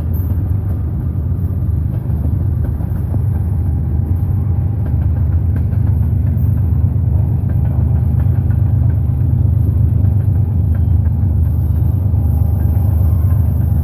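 Diesel freight locomotive working as a distributed-power unit in mid-train, most likely a GE ES44AC with its GEVO engine, approaching with a steady low engine rumble over the rolling freight cars. The rumble grows a little louder in the second half as the locomotive nears.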